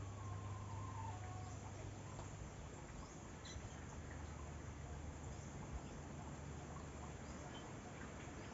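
Outdoor nature ambience: a few faint, scattered bird calls, one short whistled phrase in the first second and brief chirps later, over a steady low hum.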